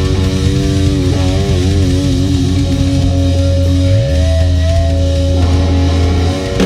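Live rock band's distorted electric guitar and bass holding long sustained notes, the guitar notes wavering with vibrato and the bass changing note about four seconds in.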